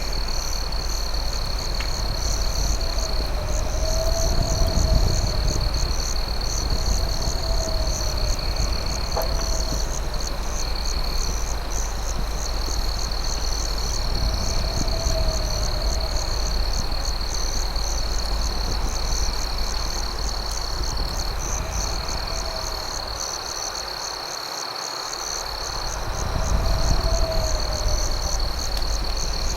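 Night insect chorus: crickets keep up a steady high trill over a faster pulsing chirr. A lower call rises and falls every few seconds, over a low rumble and a few faint crackling pops from a campfire.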